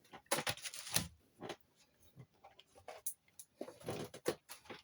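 Irregular light clicks and brief rustling of small objects being handled and set down.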